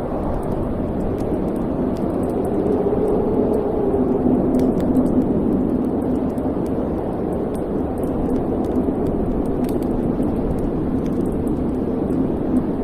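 Wood fire burning in a fireplace: a steady low rush of flames with many small, faint crackles scattered throughout.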